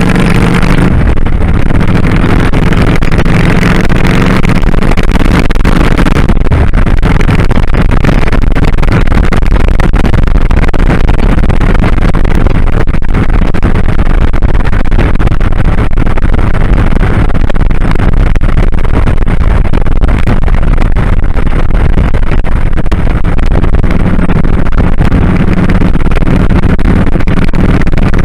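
2001 Kawasaki Drifter 1500's V-twin engine running on the move, mixed with loud wind rushing over the microphone; the engine's low note stands out most at the start and again near the end.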